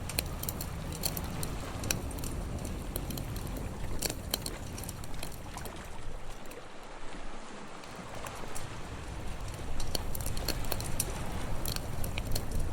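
Campfire crackling with irregular sharp pops, over a low rumble of wind and surf that eases briefly about midway.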